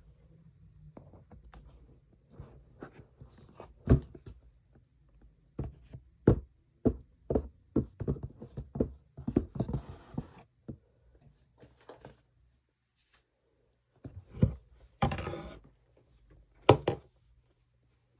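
ASMR tapping and scratching on makeup packaging: irregular taps and knocks, with a couple of short scratchy rubs about halfway through and near the end.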